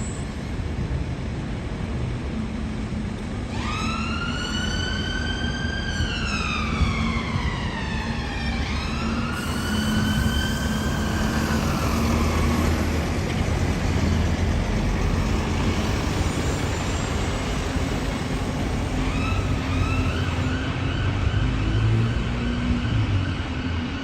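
Siren over steady vehicle noise: a wail that rises and then falls, twice, in the first half, and a steady siren tone near the end.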